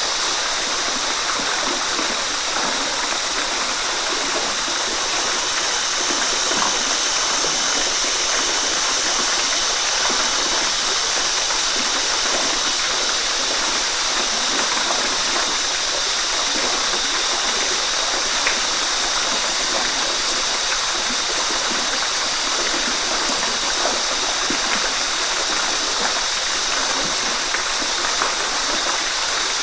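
Waterfall: water falling and splashing in a steady, unbroken rush, mostly hiss with little deep rumble.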